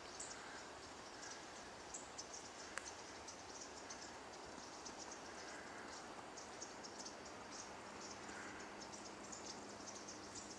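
Faint high-pitched chirps and twitters of small birds, many short notes in quick succession, with a few lower chirps about eight seconds in.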